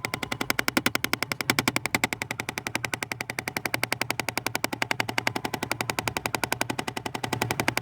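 Rapid, even clicking rattle from the dashboard air ducts of a Jeep Grand Cherokee once the ignition and AC are on, about a dozen clicks a second. The owners believe it is an HVAC actuator, though pulling one actuator has not cured it.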